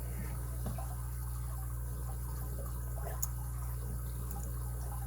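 Steady low hum with faint small metallic clicks and scrapes, one a little louder about three seconds in: a tool picking at coil springs stuck in the pin chambers of a lock cylinder.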